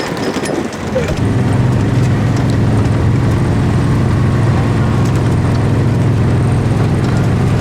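A motor vehicle's engine running steadily at a constant speed, coming in about a second in and holding one even pitch.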